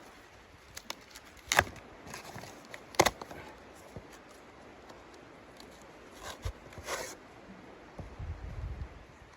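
Two sharp knocks about a second and a half apart, with lighter clicks and handling noises around them and a few softer knocks near the end.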